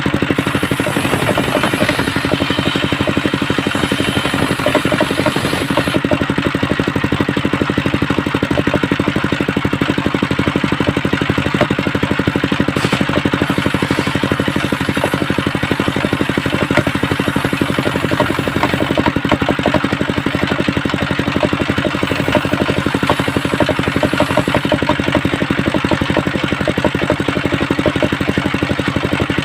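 Engine driving a homemade circular-saw rig, running steadily at an even speed with a rapid regular pulse.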